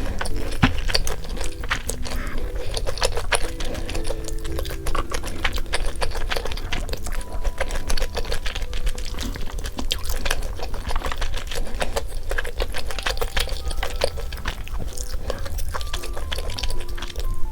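Close-miked chewing of crispy fried chicken: dense, rapid crunching and clicking of the batter, continuing steadily, over soft background music with a simple melody.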